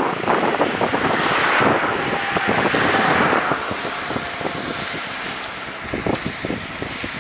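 Wind buffeting the microphone, a rough rushing noise that is strongest in the first few seconds and then eases off.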